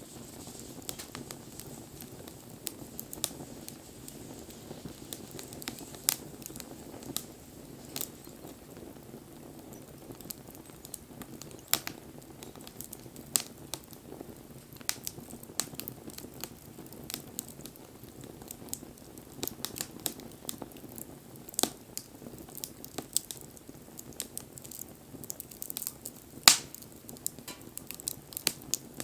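Wood bonfire burning, with irregular crackles and pops over a low steady rush of flame. One sharp pop stands out near the end.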